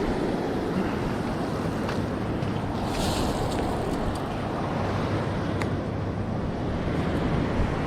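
Ocean surf washing on the beach, with wind buffeting the microphone, and a brief swell of wash about three seconds in. A few faint ticks sound over it.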